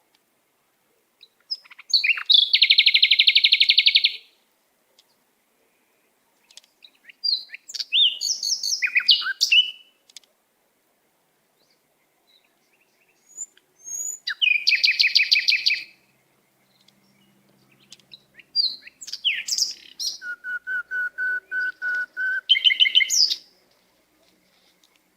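Pet songbird singing in four bursts of song, each mixing fast buzzy trills with chirps and whistled notes, the last phrase ending in a quick run of even, lower whistles.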